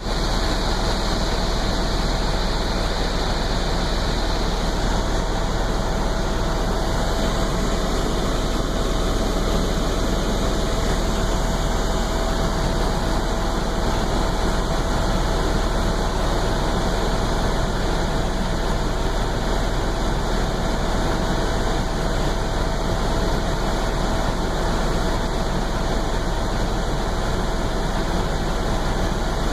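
Helicopter in flight: steady, unchanging engine and rotor noise with one constant tone running through it.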